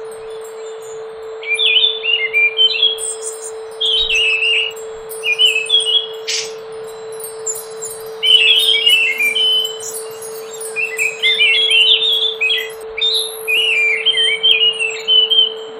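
Scaly thrush (anis macan) singing: a run of short, quick warbled phrases of varied notes, repeated with short pauses between them, over a steady low hum.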